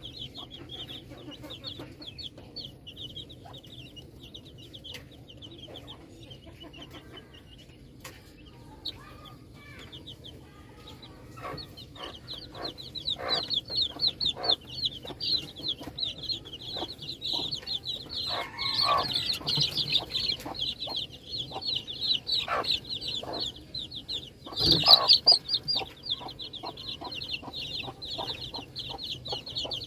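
A group of baby chicks peeping continuously in rapid, high-pitched cheeps, growing louder about halfway through, with scattered taps and knocks among them.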